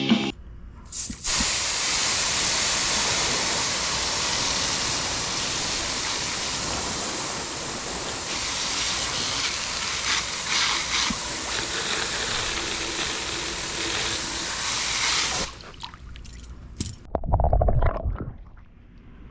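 Water spraying steadily onto waterproof marine speakers, a hiss that runs for about fourteen seconds and then cuts off. A short, loud, low rumble follows near the end.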